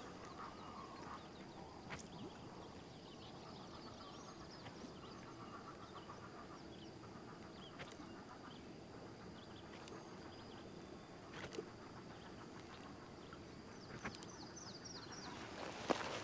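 Birds chirping and calling in many short high notes over a faint steady high tone, with scattered light clicks. Near the end comes a brief splash as a fish strikes at the topwater bait on the surface.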